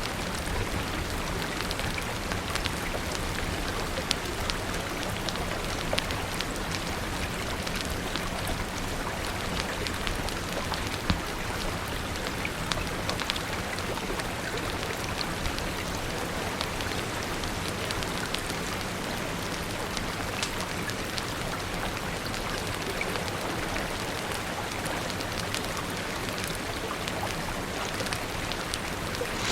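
Steady rain, with occasional sharp crackles and pops from a wood fire.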